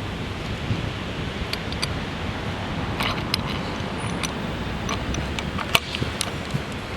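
Light clicks and small knocks as a streetboard truck is set down onto its mounting screws, several scattered over a few seconds with the sharpest near the end, over a steady low background noise.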